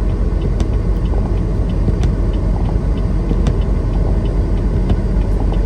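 Steady low rumble of a semi-truck's engine and road noise inside the cab while driving, with faint light ticks recurring throughout.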